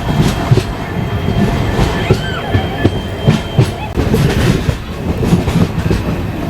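Passenger train running at speed, heard from on board: wheels knock over rail joints in a dense, irregular clickety-clack over a steady rumble, with a faint high whine.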